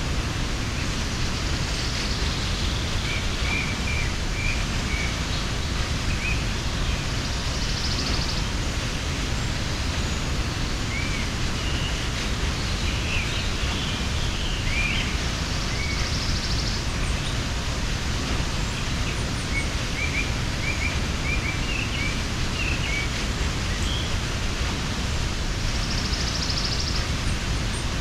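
Waterfall rushing steadily, with small birds chirping now and then over the water noise and a brief higher buzzy trill every several seconds.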